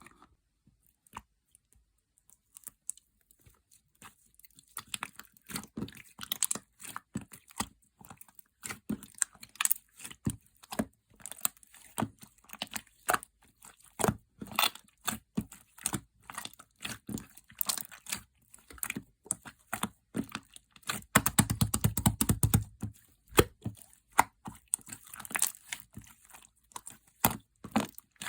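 Slime being worked by hand: a dense run of sticky crackles and small pops as it is squished and stretched, sparse at first and thickening after about four seconds, with a stretch of heavier low squelching thuds about 21 seconds in.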